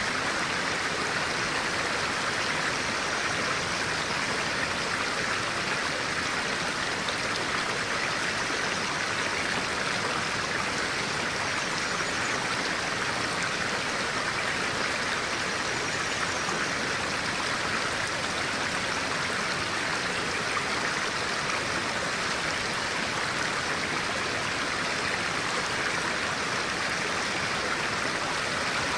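Stream of clear water flowing over rocks, a steady, unbroken rush.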